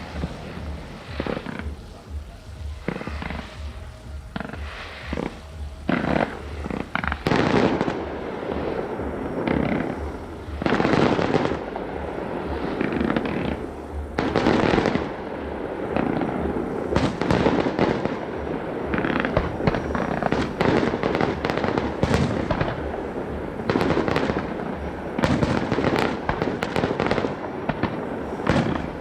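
Fireworks display: a continual run of bangs and pops from aerial shells, growing denser and louder from about seven seconds in.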